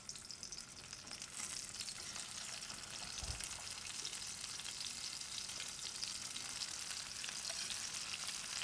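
Fennel wedges searing in olive oil in a stainless steel skillet over medium heat: a steady crackling sizzle that grows a little louder as more wedges go into the pan. A low bump about three seconds in.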